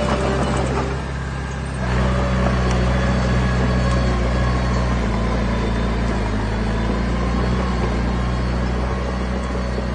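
Diesel engine of heavy earthmoving machinery running steadily, with a brief drop in level about a second in before it picks back up.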